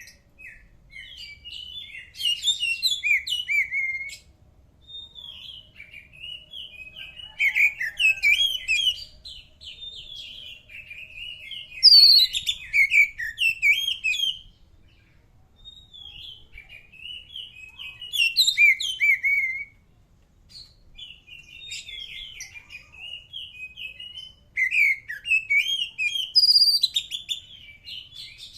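Oriental magpie-robin (kacer) singing: loud, varied whistled phrases in about five bursts of two to three seconds each, with softer twittering between them.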